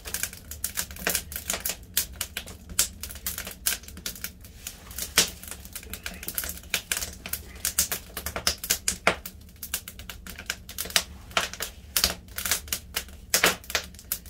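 Firewood crackling and popping as it burns, in quick irregular snaps.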